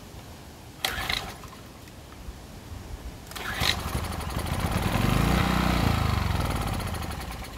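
Small 2.8 hp engine of a GEN1500 generator being pull-started: a rattling pull about a second in, then a second pull about 3.5 s in on which it catches and runs. Its revs rise, then fall away near the end.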